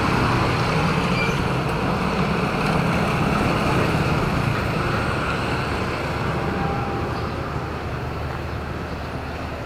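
Road traffic noise, with a nearby motor vehicle's engine humming low and gradually fading away.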